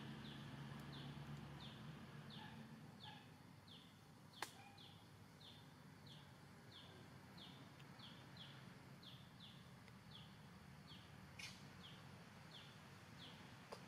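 Faint, regular series of short high chirps, about two a second, from a bird calling steadily. A sharp click comes about four seconds in and another near the end.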